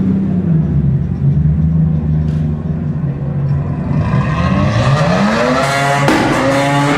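Rotary engine of a Mazda RX-7 running at low revs, then revving up with a rising pitch from about three and a half seconds in; about six seconds in the sound changes abruptly to a higher, steadier note.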